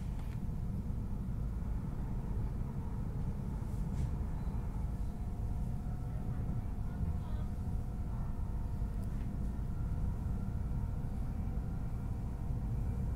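High-speed train running at speed, heard from inside the passenger cabin: a steady low rumble with a faint steady whine above it, as it crosses a steel truss bridge.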